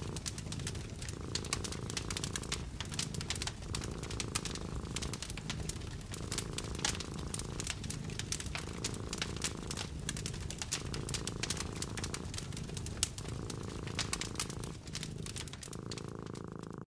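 A cat purring steadily in a low rumble that swells and dips every second or two with its breathing, over a wood fire crackling with many sharp pops and snaps.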